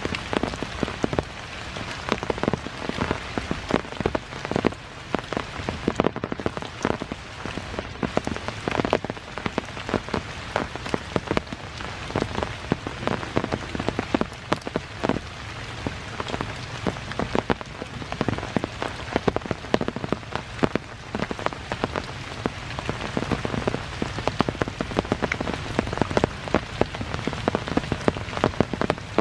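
Rain falling steadily on leaves and ground, with many sharp, irregular drop impacts over a continuous hiss.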